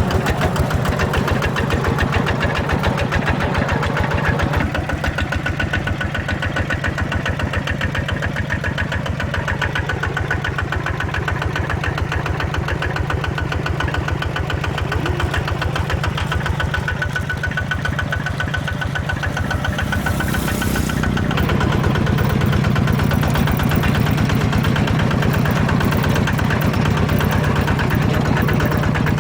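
Ride-on mini tractor's small diesel engine running with a steady, even chugging; about two-thirds of the way through it gets louder and deeper.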